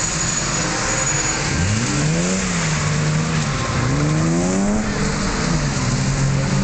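Drift cars' engines revving hard as they slide sideways on a wet track, the engine note climbing and dropping back several times with the throttle.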